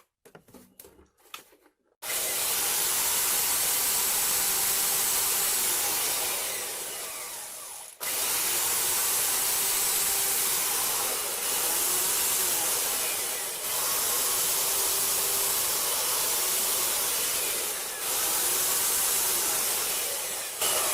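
Craftsman belt sander switched on about two seconds in and running at speed, winding down once and switched straight back on, then running on with a few brief dips. It runs without a squeal, its dry bearings freshly lubricated.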